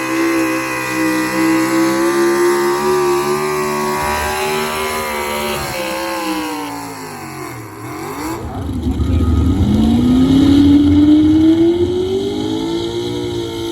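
A pro stock 4x4 pulling truck's engine running hard at high revs under load. About halfway through, its pitch sags and the sound dips. It then climbs back up and grows louder.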